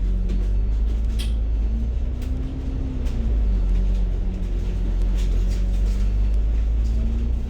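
Hong Kong bus running along the road, heard from inside the passenger cabin: a steady low engine and road rumble with an engine hum that rises briefly and falls back, and scattered light rattles from the cabin.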